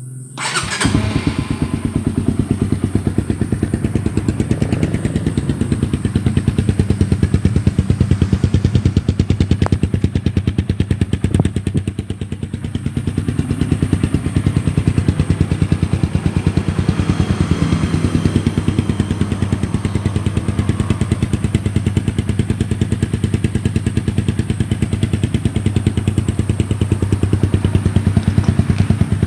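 Honda CB150R's single-cylinder engine running through a gutted 'bobokan' exhaust muffler, mostly idling with a steady, even pulse and a deep bass note that is not harsh.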